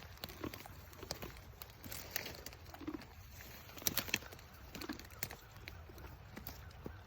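Donkeys pulling at and chewing Japanese honeysuckle vines: irregular crunching, snapping and leafy rustling.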